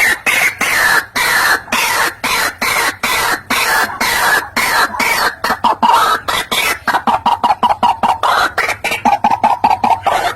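White-breasted waterhen calling: loud, harsh croaking notes repeated about twice a second, giving way about seven seconds in to a faster run of shorter notes.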